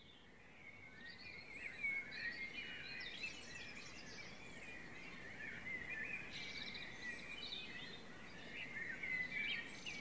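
Several songbirds singing at once, a steady chorus of chirps and warbling trills, fading in over the first couple of seconds.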